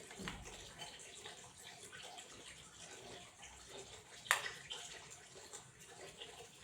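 Water running from a tap into a tub, trickling and splashing steadily, with a sharper click about four seconds in.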